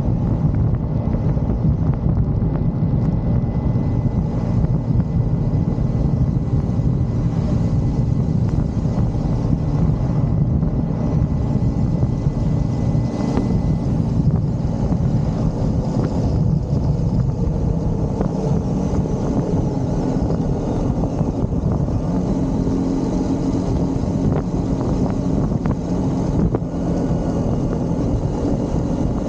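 Motorcycle engine running steadily under way, with wind rushing over the microphone; the engine note drifts up a little past the middle.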